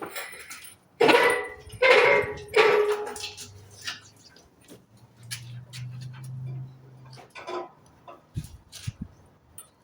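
A dog barking three times in quick succession, followed by a low steady hum lasting a few seconds, with scattered light clicks throughout.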